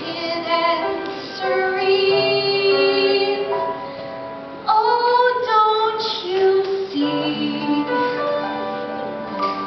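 A woman singing a ballad over instrumental accompaniment, holding long notes.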